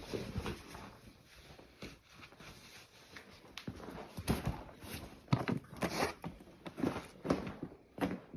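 Footsteps: a person walking at an uneven pace, about one or two steps a second, growing louder after the first few seconds.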